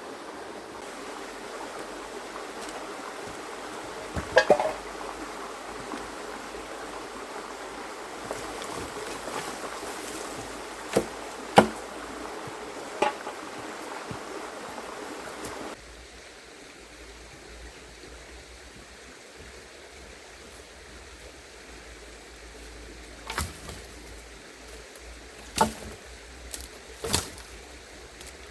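River stream running steadily, its rush dropping lower about halfway through. Scattered sharp knocks and snaps of dry driftwood firewood being pulled from the bank and handled.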